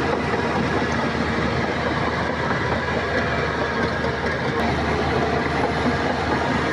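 Heavy diesel earthmoving machinery running steadily: a low engine hum under a dense, continuous metallic rattle.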